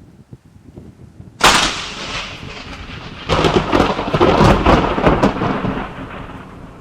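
Thunder from a close lightning strike: a sudden sharp crack about a second and a half in, then a louder crackling rumble from about three seconds in that rolls on and fades away near the end.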